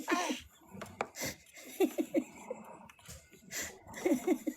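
Soft giggling in short bursts of three or four quick pitched syllables, about a second in, around two seconds and again near the end, with breathy exhales and a few light clicks between them.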